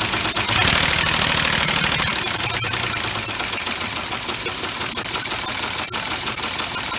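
Homemade three-cylinder compressed-air engine running, its air exhaust hissing. From about three seconds in it settles into a fast, even pulsing of roughly eight puffs a second.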